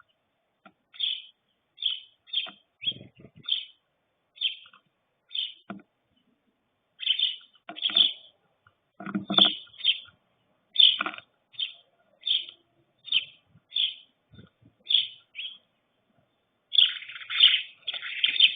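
Small birds chirping: short high chirps repeated about once or twice a second, growing into a busy run of chirps near the end. A few soft low thuds come between them.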